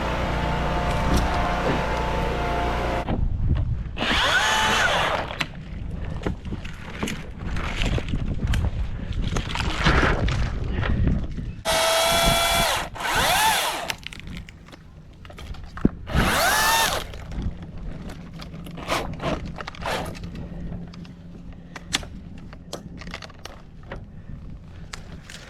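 A steady engine hum stops about three seconds in. Then a power saw runs in three short whining bursts of about a second each, with scattered knocks and cracks between them.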